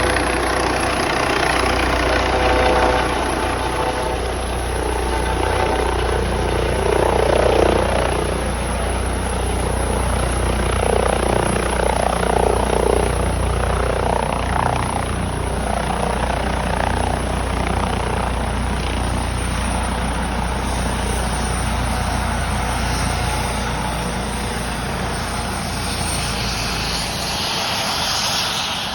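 Airbus H155 twin-turbine helicopter coming in to land, its rotor and turbines running loud and steady. A thin high turbine whine slowly falls in pitch, and the deep rotor rumble drops away near the end.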